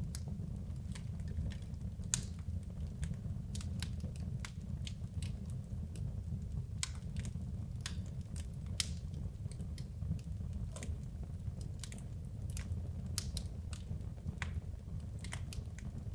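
Wood logs burning in a fireplace: irregular sharp crackles and pops, a dozen or more, over a steady low rumble.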